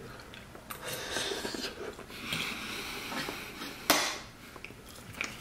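A person chewing a mouthful of chicken fried rice, with soft breathing through the nose, and one short sharp sound a little under four seconds in.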